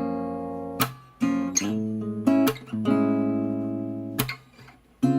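Background music: acoustic guitar strumming sustained chords, re-struck about every second, with no singing.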